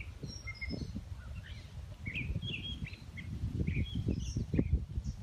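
Small birds chirping in short, scattered calls, with uneven low thumps underneath that grow stronger in the second half.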